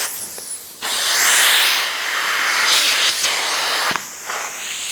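Truck-mount upholstery cleaning tool spraying water into a cushion and sucking it back out, a loud, steady hiss of spray and vacuum airflow. It starts about a second in and dips briefly near the end.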